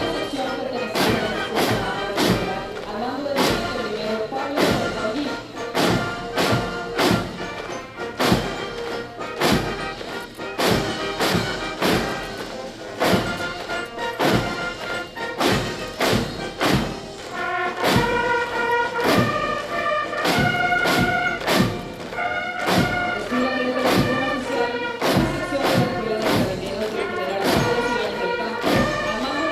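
Military band playing a march, its bass drum beating steadily about twice a second. A brass melody comes in clearly about two-thirds of the way through.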